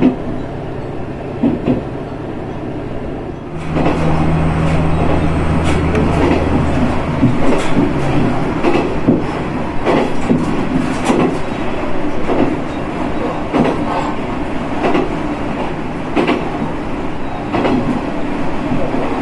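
Diesel railcar running along the track, heard from on board: wheels clicking over rail joints every second or so over the steady running noise. About three and a half seconds in, the sound grows louder and a steady low engine drone comes in for a few seconds.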